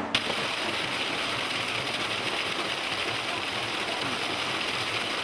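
Drumbeat music cuts off abruptly just after the start, replaced by a steady, even rush of flowing water.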